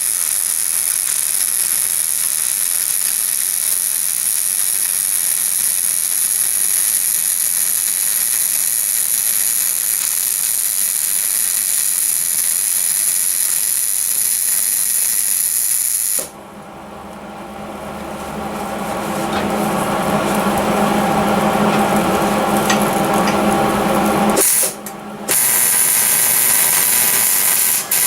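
Welding the steel caster plates onto the engine stand: a loud, steady hiss for about sixteen seconds that then cuts off suddenly. A different steady machine sound with a low hum follows, rising in level over a few seconds, with a short break near the end.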